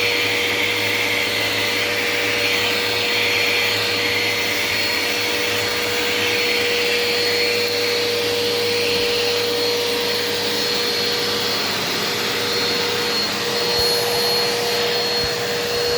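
Eureka PowerSpeed vacuum cleaner running steadily, with a constant whine over the rush of its airflow, as it cleans off a countertop.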